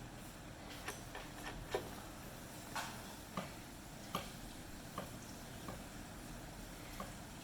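Irregular light clicks and taps, around ten spread over several seconds, over a faint low hum.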